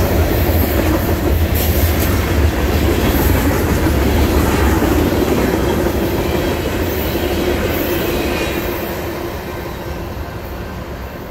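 Freight train cars rolling past, their steel wheels running on the rails, then fading steadily over the last few seconds as the end of the train goes by.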